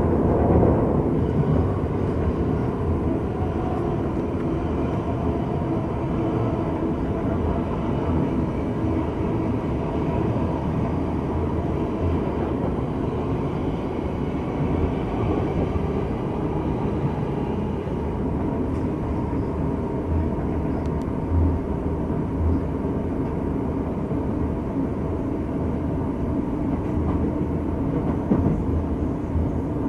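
Electric suburban train running between stations, heard from inside the carriage: a steady rumble of wheels on rail and running gear, with occasional low thumps and faint clicks.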